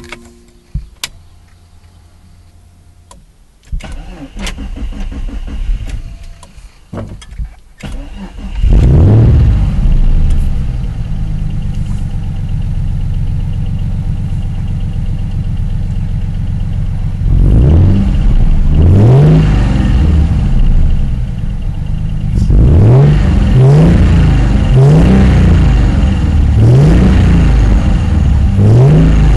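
Twin-turbo Acura Legend V6 being started: the starter cranks it for several seconds before it catches about eight seconds in. It then settles to a steady fast idle and is revved in short blips, twice near twenty seconds and several times in quick succession near the end.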